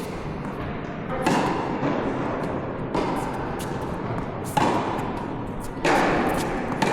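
Tennis rally: a racket strikes the ball about every one and a half seconds, each hit a sharp pop with a short ring after it.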